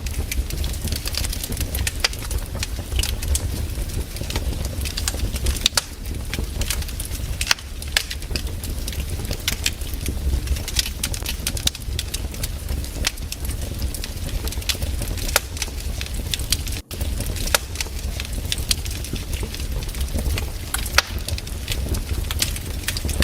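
Wood campfire crackling, with frequent irregular sharp pops and snaps over a low steady rumble. The sound cuts out for a split second about seventeen seconds in.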